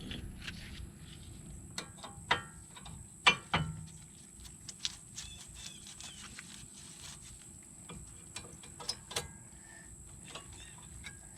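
New disc brake pads being fitted into the caliper bracket by hand: scattered metallic clicks and clinks, the loudest about three seconds in.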